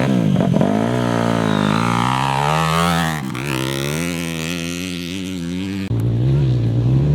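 Off-road racing engine revving as a race vehicle passes, its pitch climbing and falling, with a dip about three seconds in; the sound changes abruptly near the end.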